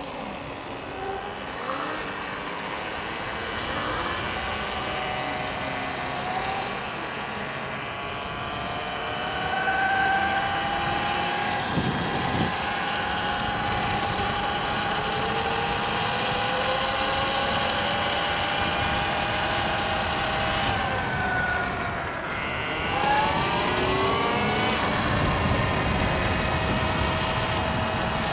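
Electric dirt bike motors whining as they ride, the pitch holding steady at speed and gliding up and down as they speed up and slow down. About two thirds of the way through the whine drops, then sweeps quickly back up under hard acceleration. Wind rushes underneath.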